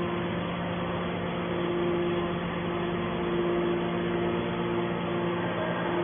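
Hydraulic scrap metal baler running: a steady hum with a couple of constant tones over a noisy mechanical haze.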